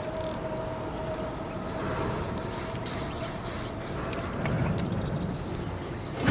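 Wood campfire crackling now and then, with an insect's steady high trill going on behind it the whole time.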